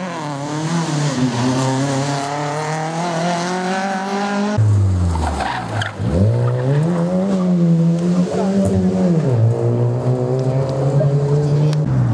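Rally car engine revving hard as the car accelerates away through the cones, its pitch climbing, dropping abruptly about halfway at a gear change, then rising and holding again.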